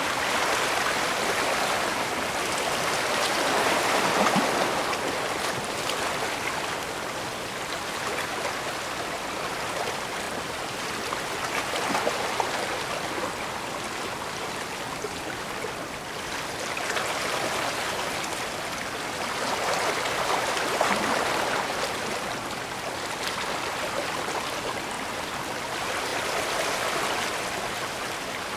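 Small waves washing against the shore of a bay, a continuous rush of water that swells and eases every several seconds.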